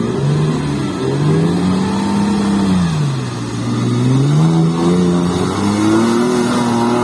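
Off-road vehicle's engine revving hard under load in a creek crossing, its pitch climbing, dropping about three seconds in, then climbing again.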